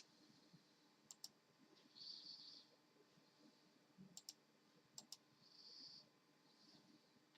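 Faint, sharp clicks in close pairs, three pairs a second or three apart, with a couple of short, soft hissy rustles between them.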